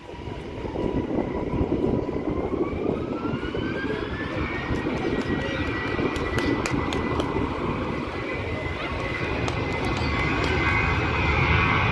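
Boeing 737-800's CFM56 jet engines spooling up to high thrust. A whine rises in pitch from about two to four and a half seconds in, then holds steady as the rumbling engine noise grows louder.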